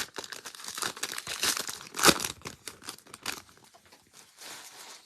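Crinkling and crackling of football trading card pack wrappers being handled and torn, with one louder crackle about two seconds in.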